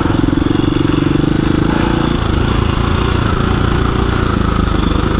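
KTM 350 EXC-F's single-cylinder four-stroke engine running as the dirt bike climbs a trail. Its steady note changes to a lower, rougher one about two seconds in.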